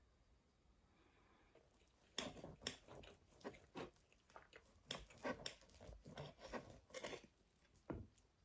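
A quiet run of irregular soft crunches and clicks, like close-up handling or eating sounds, starting about two seconds in after a near-silent stretch.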